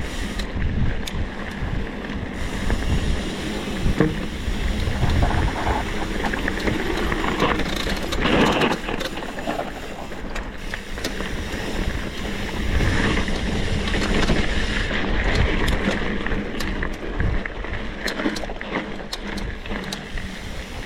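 Small motorbike running while riding, with wind buffeting the microphone.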